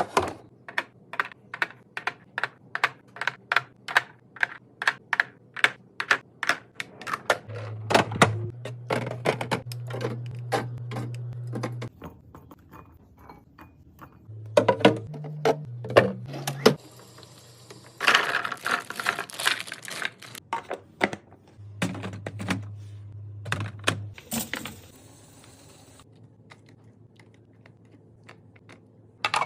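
Rapid clicks and taps of containers and items being handled while a fridge is cleaned and restocked: about three crisp clicks a second at first, then irregular clusters of knocks, with a low hum in parts.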